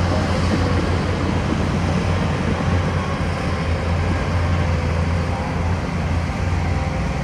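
Heavy earthmoving machinery running steadily under work, a constant deep engine drone with a broad rumble of machine noise.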